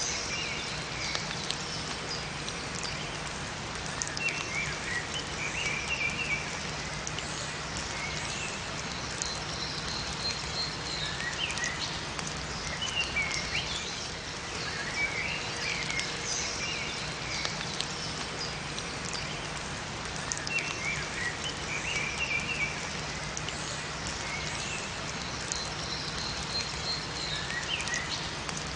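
Steady rain pattering in a forest, with small birds twittering in short bursts of chirps that recur every few seconds.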